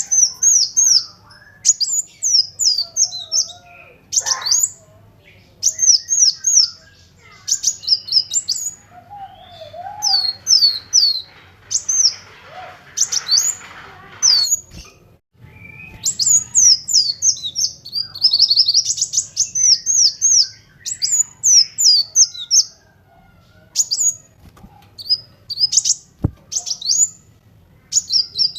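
Kolibri wulung sunbird singing in fast, high-pitched runs of short sweeping notes, broken by a few brief pauses. A sharp click sounds once near the end.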